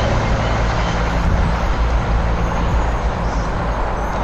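Trains running close by: a steady rumble of wheels on rail, with the low hum of a Class 170 Turbostar diesel multiple unit coming towards the camera. The hum fades about three seconds in.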